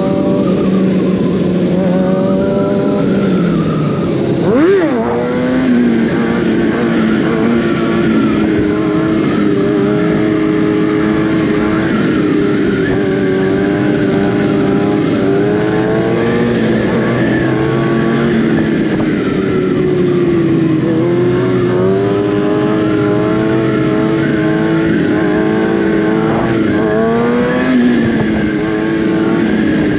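Kawasaki ZX-6R 636 inline-four engine running while riding, its pitch rising and falling with throttle and gear changes, with one sharp rev about four and a half seconds in.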